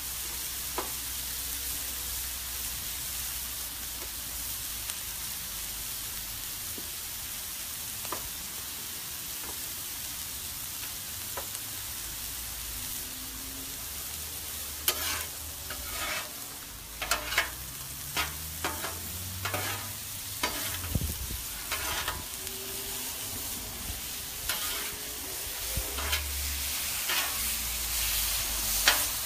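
Bite-size chicken thigh pieces sizzling on a hot Blackstone steel griddle, a steady hiss. From about halfway, irregular sharp clacks and scrapes join in as a metal spatula turns and pushes the chicken across the steel.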